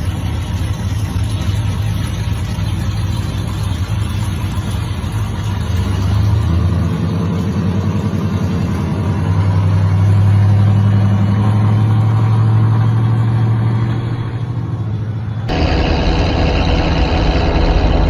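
Pickup truck engine and loud exhaust running with a deep steady note, building louder and revving up through the middle before easing off. Near the end the sound cuts suddenly to another engine running.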